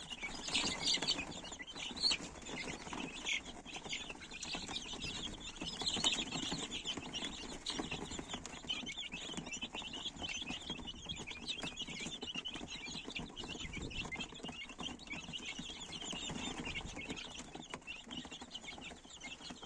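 Domestic chickens calling continuously, many short high calls and clucks overlapping.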